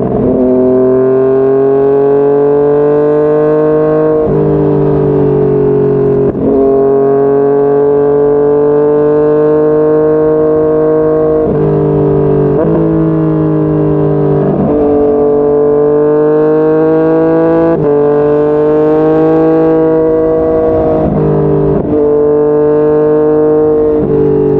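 Yamaha MT-09's 847 cc inline three-cylinder engine under way at high revs, its pitch climbing gently and then dropping sharply every two to five seconds as the rider shifts gears.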